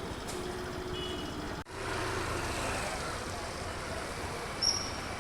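Steady outdoor street background noise, with a sudden brief break about a second and a half in and a short high beep near the end.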